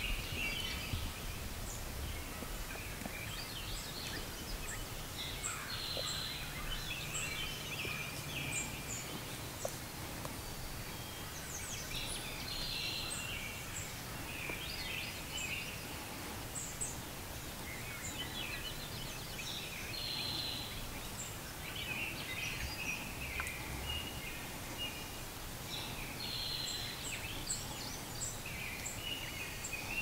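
Outdoor bird calls: a call of about a second repeats every few seconds, with faint higher chirps in between, over a steady low rumble of open-air background noise.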